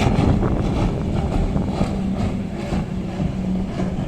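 Racing powerboat engine running past with a steady drone at one pitch, over wind buffeting the microphone.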